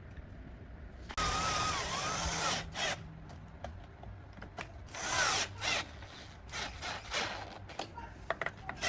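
Handheld power tool run in short bursts: a long run about a second in, another around five seconds, then a string of brief trigger taps.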